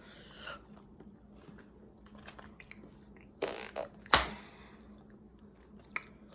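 A person chewing and biting into a chicken sandwich, small mouth clicks, with a short noisy burst and then a sharp knock about four seconds in.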